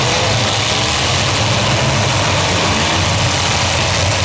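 Demolition derby cars' engines running steadily in a loud, unbroken drone, with no single crash standing out.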